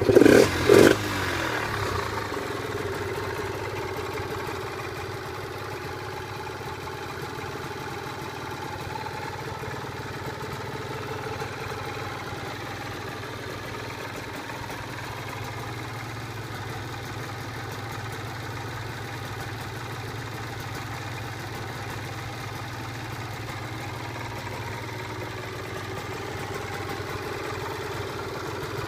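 Yamaha TDR50's 50cc two-stroke single-cylinder engine, just started, revved in two or three quick blips in the first second, then settling to a steady idle.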